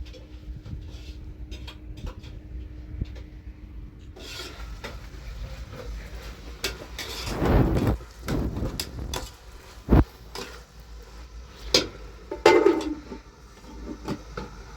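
Handling sounds: scattered clattering and knocks, busier in the second half, with one sharp knock about ten seconds in.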